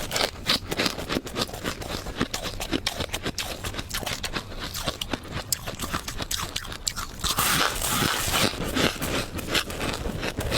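Close-miked chewing and crunching of soft, fluffy frost ice: a dense, uneven run of small crackles and crunches, with a brief hissing scrape about three-quarters of the way through.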